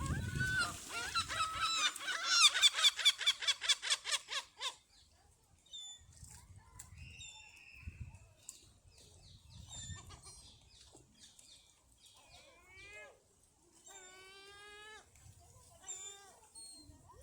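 Geese and other park birds calling at a feeding frenzy over thrown food. A loud, fast run of repeated honking calls comes in the first few seconds, then scattered quieter calls, with one quick rattling series a little after the middle.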